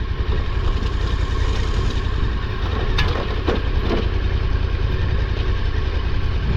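KTM 1290 Super Adventure R's V-twin engine running at low revs as the bike rolls down a steep trail, with a few sharp knocks about three to four seconds in.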